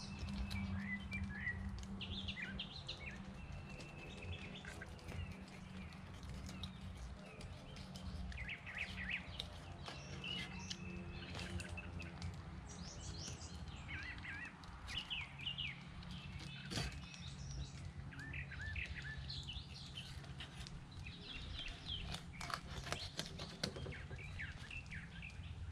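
Songbirds chirping and calling on and off, over a low steady hum. A few sharp clicks stand out, one about two-thirds of the way through and several near the end.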